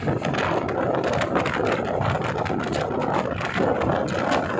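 Passenger train running along the track, heard from a coach doorway: a steady rumble with a rapid, irregular clatter of the wheels on the rails.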